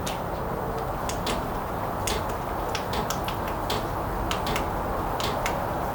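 VEVOR diesel heater starting up: a steady blower fan noise, with sharp clicks coming at irregular intervals.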